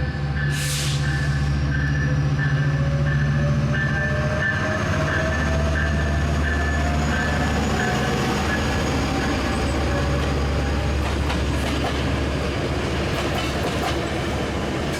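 Metrolink commuter train running past with its diesel locomotive's engine drone, while a bell rings rapidly through the first half. In the last few seconds the wheels clack over the rail joints as the cars go by.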